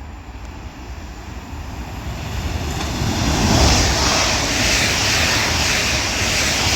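Two coupled Class 331 electric multiple units passing through at speed without stopping. A rushing sound of wheels and air builds as they approach and is loudest from about three seconds in.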